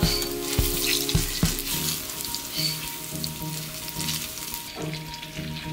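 Plantain slices sizzling as they fry in hot oil in a small pan, with a few clicks of a utensil against the pan and plate in the first second and a half as golden pieces are lifted out.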